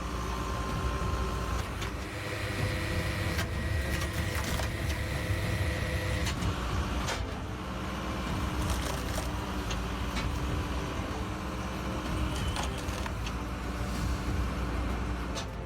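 An engine running steadily, with occasional clicks and knocks.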